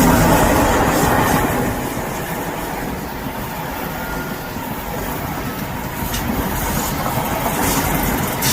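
Train passing close by, its wheels clattering on the rails. The noise eases about two seconds in, then builds again toward the end.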